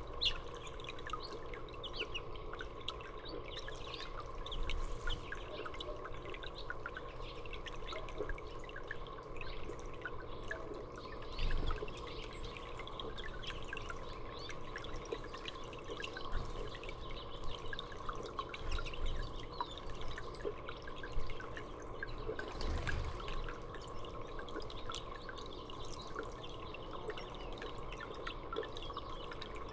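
Small songbirds chirping and calling in short notes, over water trickling and dripping and a steady hum. Two brief low thumps come about a third of the way in and again about three quarters in.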